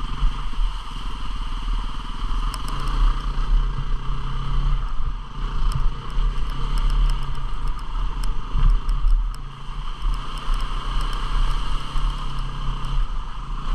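250 cc single-cylinder dual-sport motorcycle engine running steadily while riding a trail, with scattered light ticks and clatter over it.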